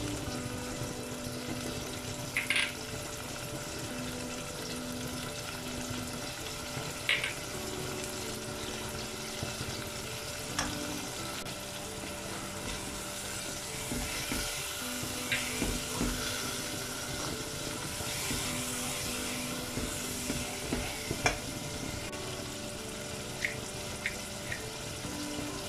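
Chopped tomatoes frying in oil in a non-stick pot: a steady sizzle as spices are stirred in with a plastic spatula. A few sharp taps against the pot stand out, about five in all.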